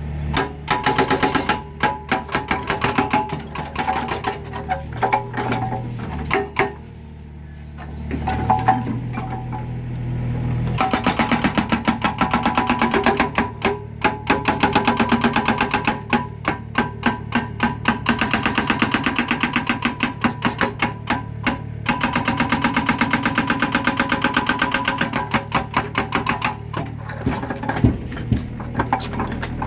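Mini excavator's hydraulic breaker hammering concrete in rapid runs of many blows a second, stopping briefly between runs, over the steady hum of the excavator's engine.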